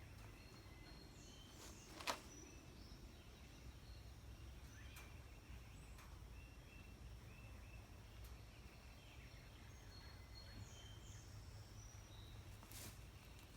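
Quiet outdoor ambience: a low steady rumble with short, high chirps of small birds scattered throughout. A single sharp click comes about two seconds in.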